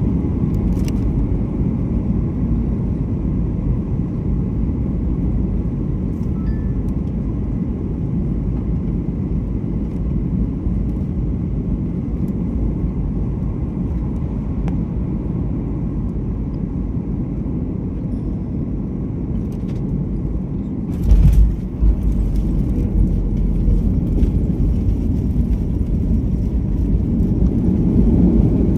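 Steady rumble of an airliner coming in to land. About two-thirds of the way through there is a brief heavy thump, the wheels touching down, and the rumble then carries on a little louder as the plane rolls along the runway.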